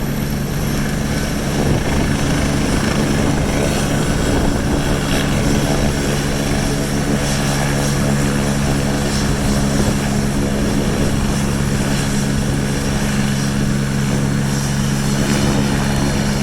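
Air-ambulance helicopter's turbine engine and rotors running loudly and steadily, a constant drone with a steady low hum that does not change pitch.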